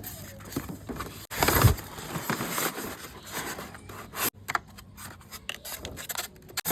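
Irregular scraping, rubbing and clicking of objects being handled, with a louder thud about a second and a half in.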